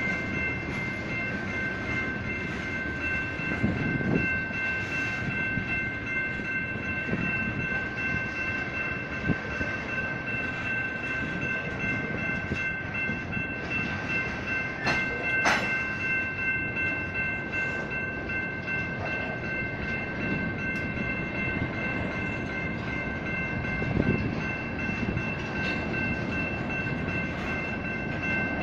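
Electronic railroad crossing bells ring steadily over the low rumble of a train moving slowly over the crossing. A sharp metallic clank sounds about halfway through.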